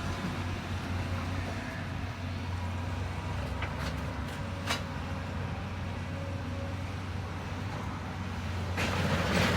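Heavy demolition machine's engine running steadily at a low hum, with a few sharp knocks in the middle and a louder, rough burst of noise near the end as it works the building.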